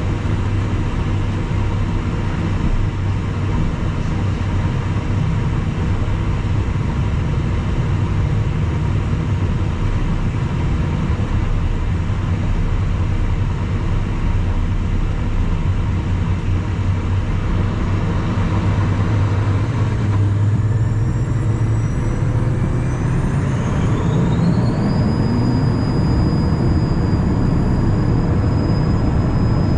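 Cabin noise of a Cessna Citation Mustang's Pratt & Whitney PW615F turbofan engines: a steady rumble and hum, then, about two-thirds of the way through, a whine rises in pitch over several seconds and holds steady as the engines spool up.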